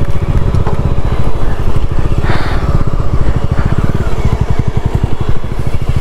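Motorcycle engine idling close by, a steady rapid low pulsing, with a brief hiss a little over two seconds in.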